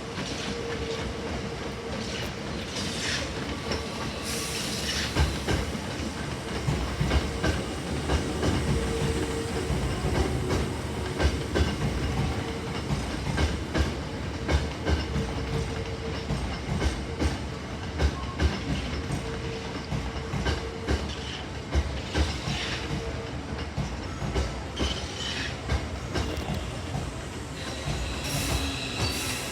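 Hankyu 7000-series electric train running, its wheels clacking over rail joints in a regular rhythm, with a steady hum underneath.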